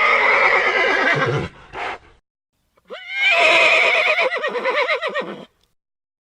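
Horse whinnying twice, each call about two seconds long with a quavering, shaking pitch, a short pause between them.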